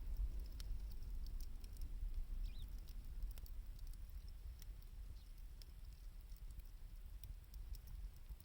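Wood bonfire crackling: many small irregular pops and ticks over a low rumble.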